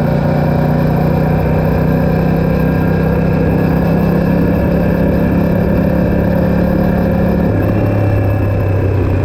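Aprilia RS660's 659 cc parallel-twin engine running through a Mivv Delta Race exhaust with no catalytic converter and the dB killer fitted. It holds a steady note, then drops to a lower pitch about seven and a half seconds in.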